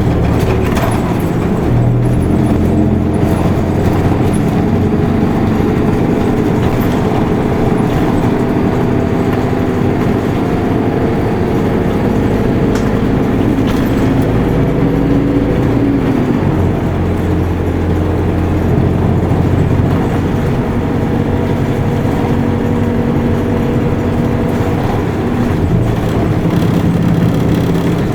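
Isuzu Erga Mio city bus heard from inside while driving: its four-cylinder diesel engine runs steadily under the tyre and road noise, its note shifting in pitch a few times as the bus changes speed.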